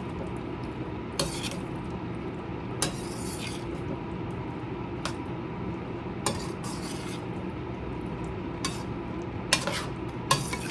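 A spoon stirring a thick curry in a cooking pot, with a sharp clink of the spoon against the pot every second or so over a steady low background noise.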